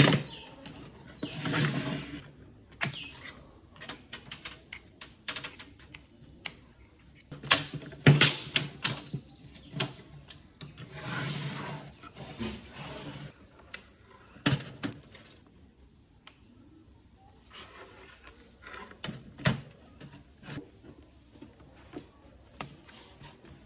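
Irregular clicks and knocks mixed with a few longer rubbing, scraping noises, as of objects being handled.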